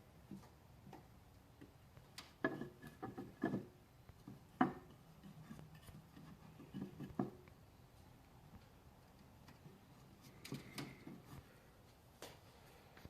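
Scattered light knocks and clicks of wooden hive parts being handled, in a few clusters with short pauses between them.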